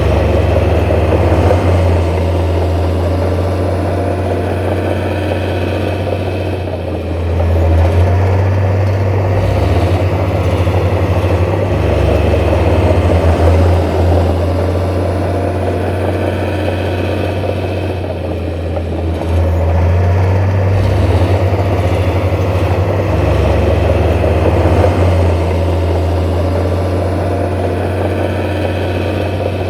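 Heavy diesel engine of earthmoving machinery running steadily with a deep rumble. Its note shifts up and down every few seconds as the load changes.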